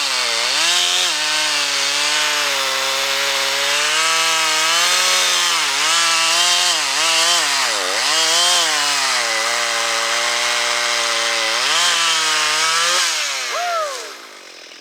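Chainsaw cutting through wood at full throttle, its engine note dipping and recovering as the chain bites under load. About thirteen seconds in the throttle is released and the engine note falls away quickly.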